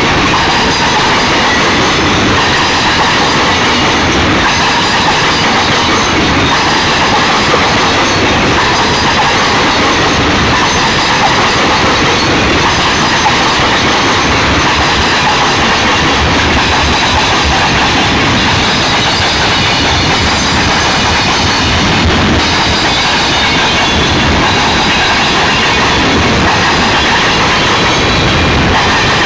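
Union Pacific freight train cars rolling past at speed, a steady loud rush of wheel and rail noise with rhythmic clicking of wheels over the track.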